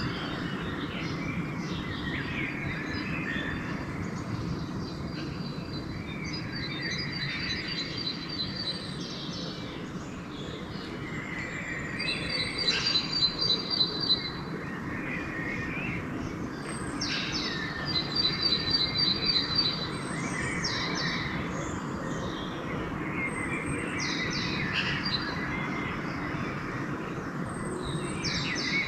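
Dawn chorus of several songbirds singing at once. One bird repeats a fast, high trill every few seconds. A steady low rumble runs underneath.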